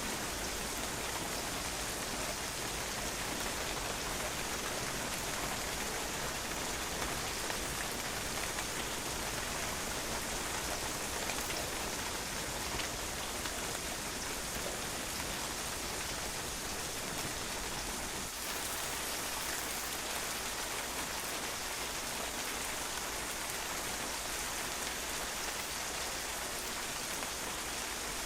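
Steady rain falling on a patio, a constant hiss of many drops pattering on the hard surface.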